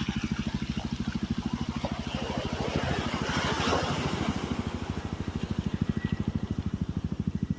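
Navy helicopter's rotor blades thudding in a fast, steady beat. A rush of noise swells and fades about halfway through.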